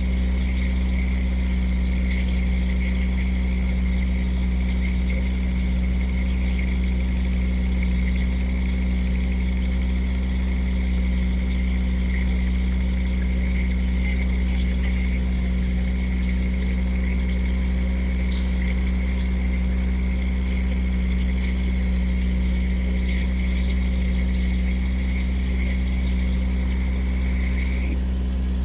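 Boat engine running steadily: a low, even drone with a steady high whine above it.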